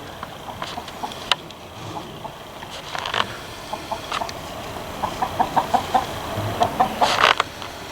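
Fowl clucking: a run of short clucks that comes thicker and faster in the second half. Near the end there is one louder, harsher call.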